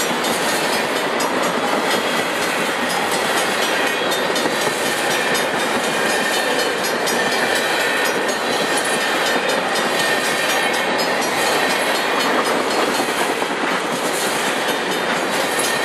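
Freight train of tank cars passing close by at speed: a loud, steady rush of steel wheels rolling on the rails.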